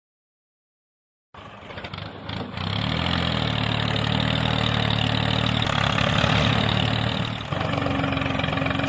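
Dead silence, then about a second and a half in an engine starts and runs steadily with a low rattly idle; a little before the end the sound changes and a steady hum joins it.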